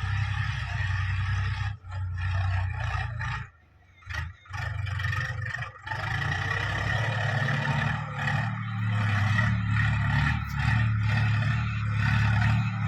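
Backhoe loader's diesel engine running steadily, with scraping and clatter. The sound cuts out abruptly about two seconds in, again for about a second near four seconds, and once more near six seconds.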